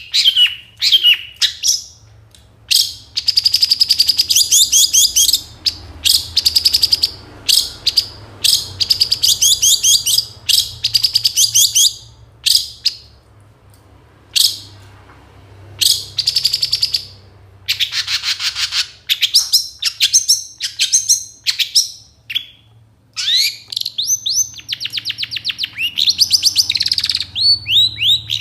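Long-tailed shrike (cendet) singing its full song: loud phrases of very rapid, high trilled and chattering notes, broken by short pauses and packed with imitations of other birds' calls.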